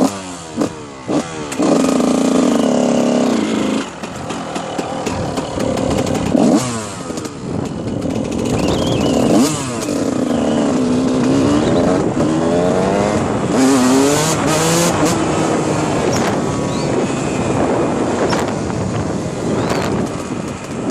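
Dirt bike engine revving up and down again and again as it is ridden, its pitch climbing and dropping through the gears, with steady rushing noise underneath.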